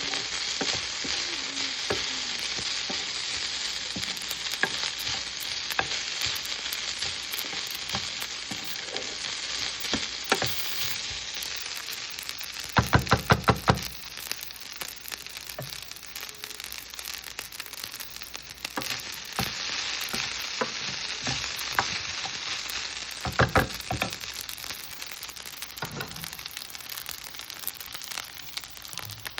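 Seasoned leftover rice sizzling in a hot pan as it is stir-fried with a spatula. Twice, about 13 seconds in and again about two-thirds of the way through, a quick run of sharp knocks as the spatula raps against the pan.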